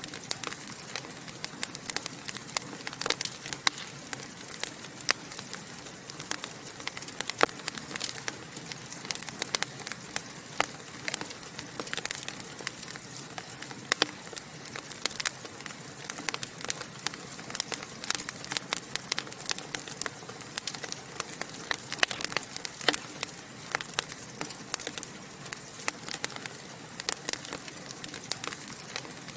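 Wood fire burning in a fireplace, crackling and popping constantly over a soft hiss.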